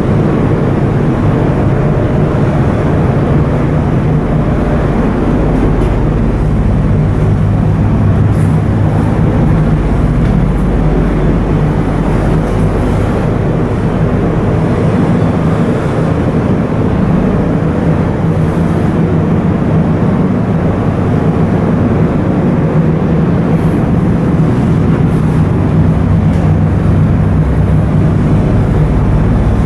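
Coastal cargo ship's diesel engine running steadily under way, a loud constant drone with a low hum.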